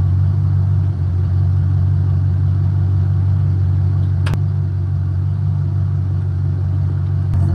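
Motor vehicle engine running with a steady low rumble. A single sharp click about four seconds in, and a fainter one near the end.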